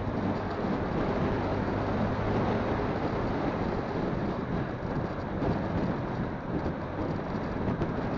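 Wind buffeting a phone microphone on a moving motorcycle, with the engine's steady hum and road noise underneath.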